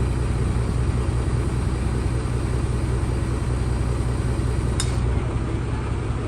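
Heavy engine idling with a steady low rumble. A sharp click comes about five seconds in, and the deepest part of the rumble drops soon after.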